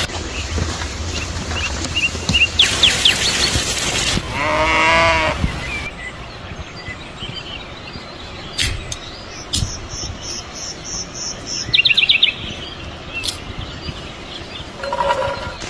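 Small birds chirping and twittering in short, scattered calls over steady outdoor background noise. A single drawn-out farm-animal call sounds about four to six seconds in, and a short one near the end.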